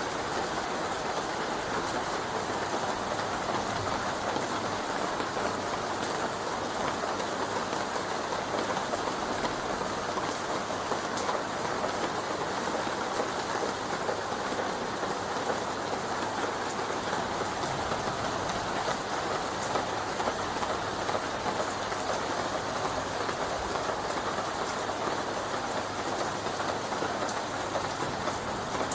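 Rain falling on leaves, a dense, even tapping that stays steady throughout.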